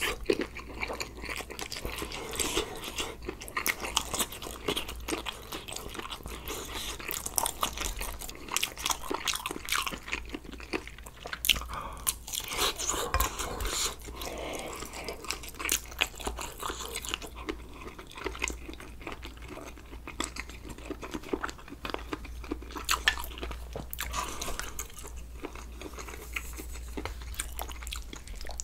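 A man eating: steady chewing and biting with many wet smacks and crunches, one after another without a break.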